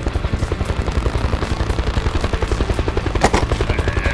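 Motor-vehicle engine sound effect running with a fast, even chugging pulse, and one sharp click about three seconds in.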